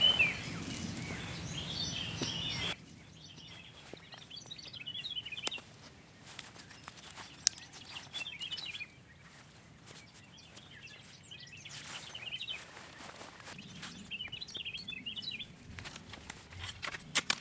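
Songbirds chirping in short bursts every few seconds over quiet outdoor ambience, with a few sharp clicks. The background drops suddenly about three seconds in.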